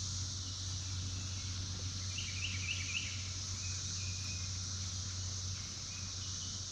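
Periodical cicadas of Brood XIX singing in chorus, a steady high-pitched drone. About two seconds in a bird gives four quick rising chirps, with a few softer notes after.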